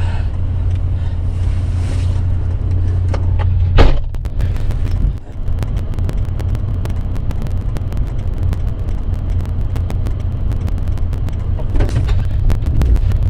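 Vehicle engine running with a steady low rumble. A single loud knock comes about four seconds in, and after it a dense, irregular crackling runs on over the rumble.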